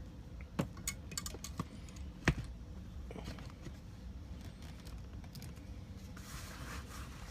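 A run of small clicks and taps as a sixth-scale action figure is fitted onto its display stand, with the sharpest knock a little over two seconds in, followed by a few faint ticks.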